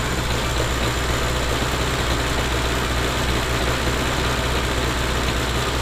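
Triumph Acclaim's carburettor four-cylinder petrol engine idling steadily on its first cold start after long standing.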